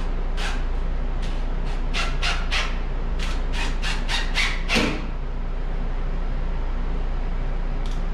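About a dozen sharp, irregular clicks and scrapes over four or five seconds as plumbing fittings and tools are handled, over a steady low hum.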